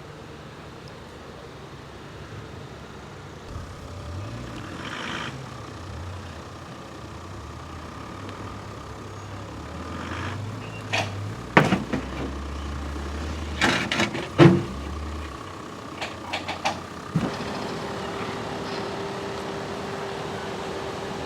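An off-road vehicle's engine running at low revs, its pitch rising and falling, with a run of sharp, loud knocks and bangs through the middle.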